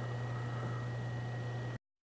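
Steady low hum with an even hiss and a thin, steady high whine, cutting off abruptly near the end.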